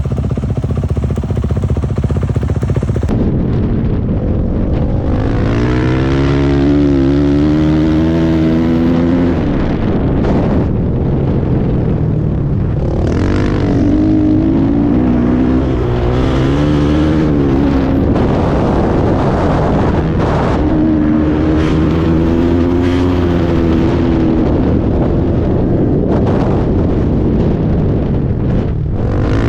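Dirt bike engine running hard, its pitch rising and falling again and again as the rider accelerates and shifts, with a steady rush of wind and tyre noise underneath.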